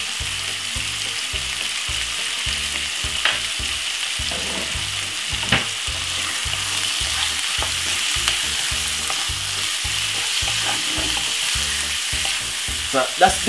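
Diced chicken breast, onion and garlic sizzling steadily in hot oil in a nonstick frying pan, stirred with a wooden spoon near the end.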